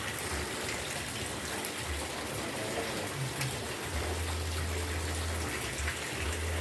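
Steady rain falling, an even hiss. A low rumble comes in about four seconds in and again near the end.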